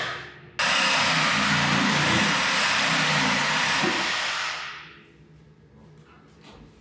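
A power cutting tool cutting through the Unimog's exhaust pipe: a loud, steady hiss that breaks off briefly at the start, returns sharply, and dies away about five seconds in.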